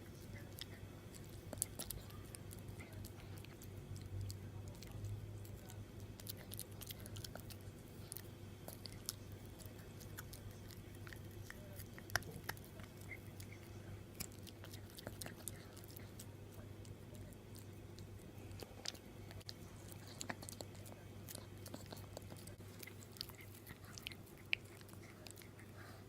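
A Shiba Inu puppy gnawing and chewing on a dog chew, with irregular small clicks and crunches of teeth on the chew. A steady low hum runs underneath.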